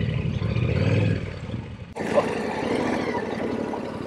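Yamaha Ténéré 700's parallel-twin engine running at low revs, falling away about a second in. About two seconds in the sound changes abruptly to a hissier, steadier running noise.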